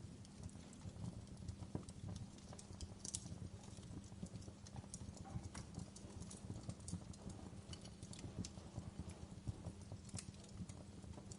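Wood log fire crackling in a fireplace: irregular sharp snaps and pops over a steady low background.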